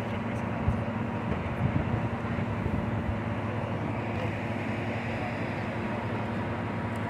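Mount Washington Cog Railway train running: a steady mechanical rumble with hiss, with a few light knocks in the first couple of seconds.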